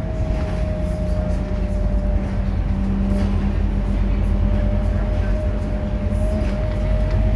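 Scania K230UB city bus running under way, a steady low engine drone with a steady whine above it.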